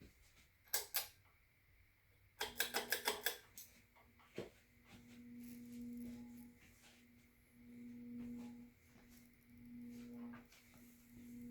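52-inch TAT Deluxe ceiling fan: a couple of clicks, then a quick run of about seven clicks, after which the fan motor sets up a low hum that swells and fades about every two seconds.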